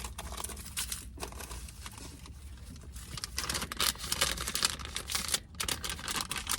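Plastic cough drop wrappers being crinkled and rustled by hand, in irregular bursts that get louder from about three seconds in.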